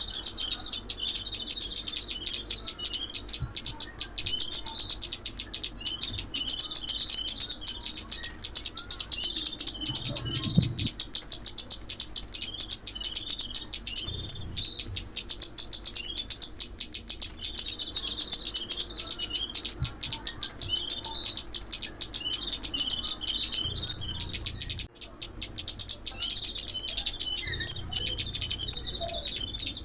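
Rapid, high-pitched chirping and twittering of a small songbird, the one Vietnamese bird-catchers call chim ốc mít. It is a continuous recorded call, used as a lure to draw the bird into a trap.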